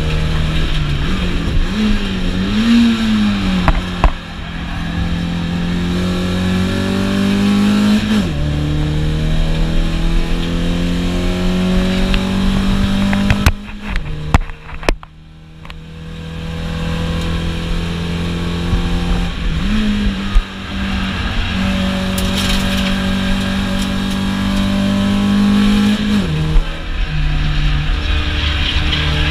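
Car engine heard from inside the cabin under hard acceleration on a track. Its note climbs steadily and drops sharply at each upshift, four times. About halfway through it goes briefly quiet as the driver lifts off the throttle, then it climbs again.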